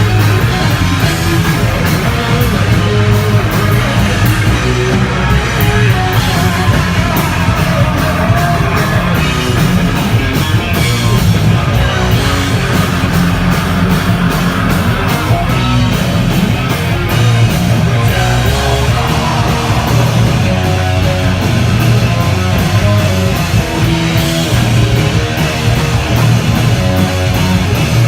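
Heavy metallic hardcore band playing live: loud distorted electric guitars over bass and pounding drums with crashing cymbals, a dense, steady wall of sound.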